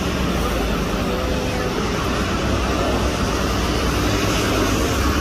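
Jet aircraft engines, a steady broad rumble without rise or fall.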